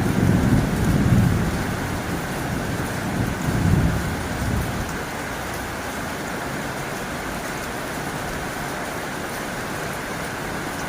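Heavy rain drumming on a tin roof as a steady, even hiss. In the first five seconds a low rumble swells twice and then dies away.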